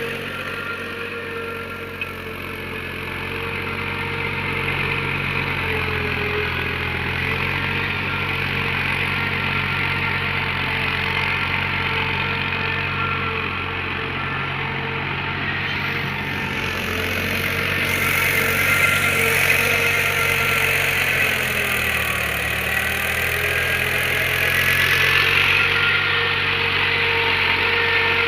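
Mahindra tractor's diesel engine running steadily under load in soft paddy-field mud, its pitch shifting a little as the load changes, with one sharp click about two seconds in.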